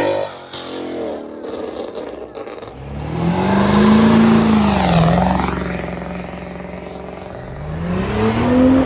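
A car engine revving as a car pulls away and drives past. Its note climbs, dips as it goes by about five seconds in, then climbs again near the end as it accelerates.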